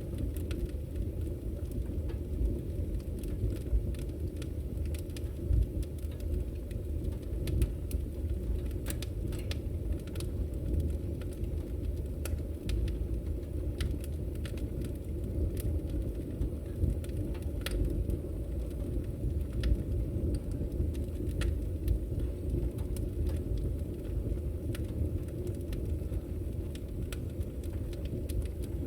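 Wood fire burning with a steady low rumble, crackling and popping with frequent sharp snaps scattered irregularly throughout.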